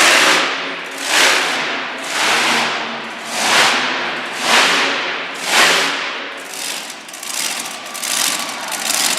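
Monster truck engine revved hard over and over, about once a second, six strong swells, then running more raggedly near the end.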